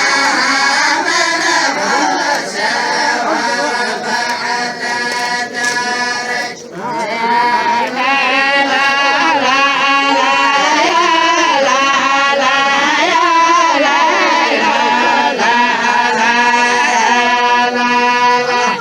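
A group of voices chanting a traditional Qays tribal song (a tarq of the la'ib) together. The chanting breaks off briefly about six and a half seconds in, then resumes.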